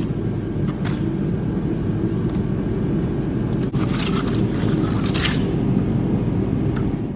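A steady low rumble, with a trowel scraping over the concrete floor screed about a second in and again from about four to five seconds in.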